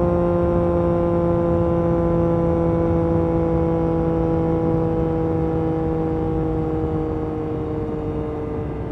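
Yamaha MT-09 SP's inline three-cylinder engine through an Akrapovic carbon racing exhaust, running at steady revs that slowly fall. The note eases off and gets a little quieter near the end.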